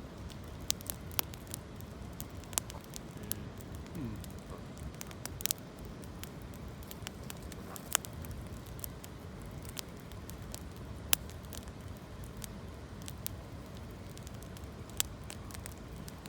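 Campfire of gathered branches crackling, with irregular sharp pops, a few louder than the rest, over a steady low rush.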